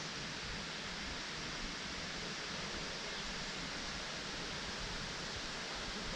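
Na Muang waterfall's falling water, a steady rushing hiss with no change in level.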